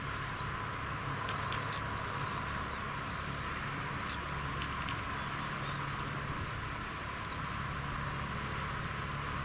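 A small bird gives five short, high, falling chirps about a second and a half apart, over a steady hiss and low hum.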